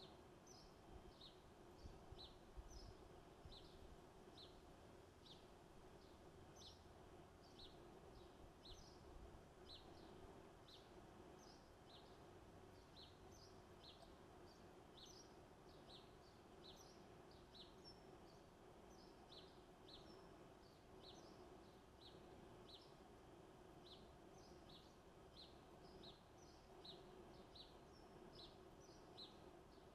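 Faint, steady series of short high chirps from a small bird calling over and over, about two a second, over a low background hum.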